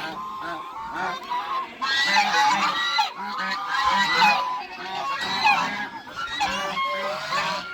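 A flock of geese honking, many calls overlapping one another without a break.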